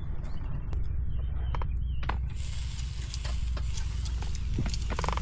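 A steady hiss with small crackles starts suddenly about two seconds in, over a low steady rumble.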